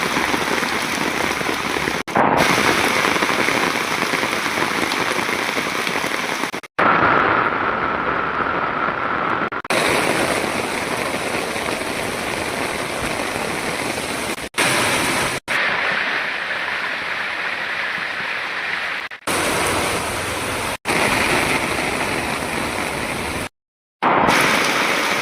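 Steady rain falling, an even hiss of rain, broken by several abrupt cuts between short recordings.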